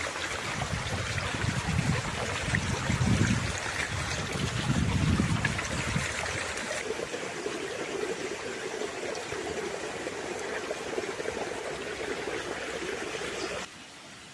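Flowing water rushing and trickling steadily, with some low rumbling in the first six seconds; the sound drops off abruptly near the end.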